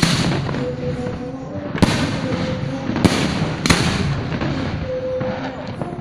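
Aerial fireworks display: four sharp bangs of bursting shells, the first right at the start and the rest a second or so apart, with crackling and rumbling between them.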